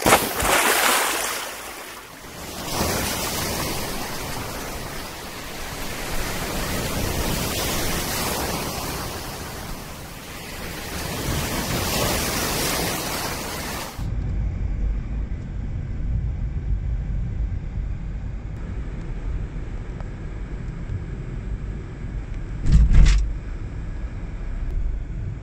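Sea waves breaking and washing on the shore, the rush swelling and falling every few seconds. About halfway through it cuts to a steady low rumble of wind on the microphone, with a brief bump near the end.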